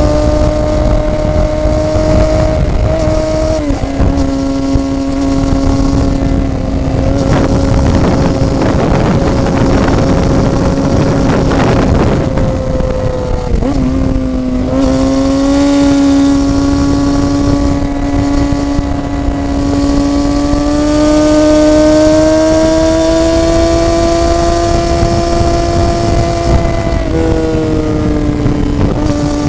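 Sport motorcycle engine running at steady cruising revs, heard from the moving bike. The pitch steps down a few seconds in, dips sharply about fourteen seconds in, climbs slowly over the next dozen seconds and steps down again near the end. Wind rush swells in the middle.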